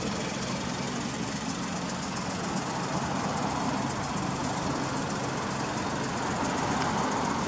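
Suzuki Kei Works' K6A 660 cc three-cylinder turbo engine idling steadily, with an aftermarket muffler fitted.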